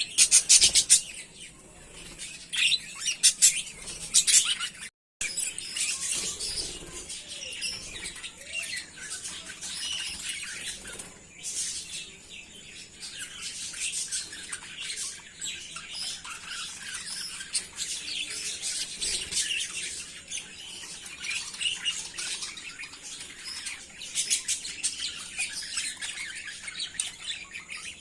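A flock of budgerigars chirping and chattering together, many overlapping high calls at once. The sound breaks off into silence for a moment about five seconds in, then the chatter carries on.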